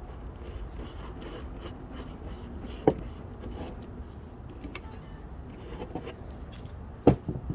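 A few light knocks and taps from small objects being handled, over a steady low hum.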